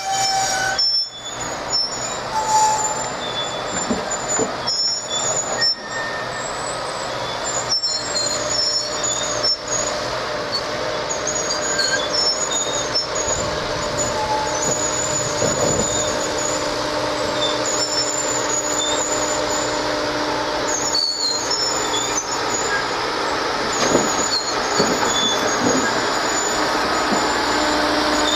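A slow-moving work train of open hopper cars rolling on steel rails, the wheels giving short, high, wavering squeals again and again over a steady running noise.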